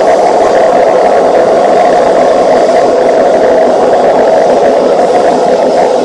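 Running noise of a Tokyo Metro 17000 series train at a steady speed: a loud, even roar with no rise or fall in pitch.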